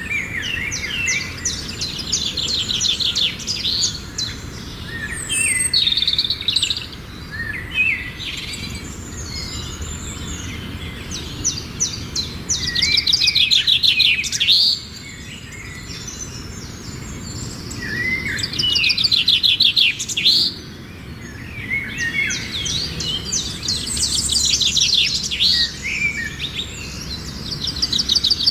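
Small cage birds, pet finches and a canary, chirping and singing, with long phrases of rapid trills that come and go every few seconds.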